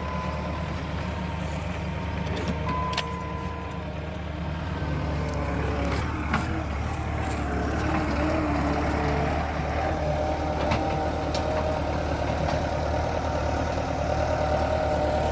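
Skid steer engine running steadily, building up and gaining a higher whine about a third of the way in, with a few sharp metallic knocks along the way.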